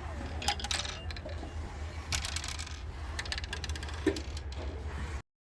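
Irregular clicking and rattling from the moving parts of a playground play panel being worked by hand. The sound cuts off to silence just before the end.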